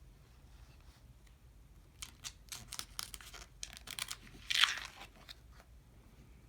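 Pages of an album photo book being handled and turned: quick paper rustles and crinkles, then one louder brief rasp a little past the middle, as stuck-together pages are pulled apart.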